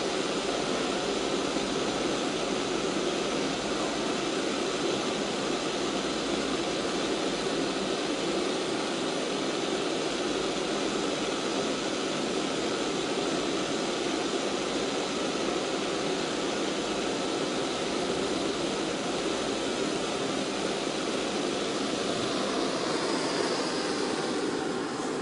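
A steady, unchanging rushing noise that holds at one level throughout.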